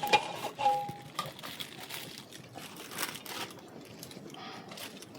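Irregular crinkling and rustling of something being handled, with short clicks scattered through it.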